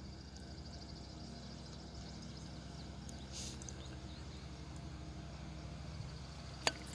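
Quiet background: a steady low hum with a faint high whine, a brief soft hiss about halfway through and a single sharp click shortly before the end.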